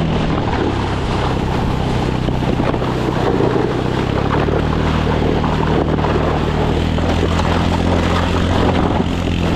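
A motor vehicle engine running steadily under a dense rushing noise, with the engine note rising about four seconds in.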